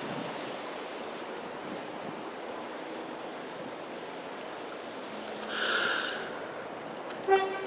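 Steady outdoor background noise, an even wash like distant traffic. About six seconds in there is a brief louder swell, and a short pitched squeak or chirp comes near the end.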